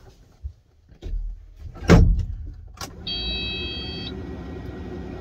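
Kubota SVL75-2 loader's diesel engine starting about a second in and then running steadily. Two sharp knocks come around two and three seconds in, followed by an electronic warning beep lasting about a second.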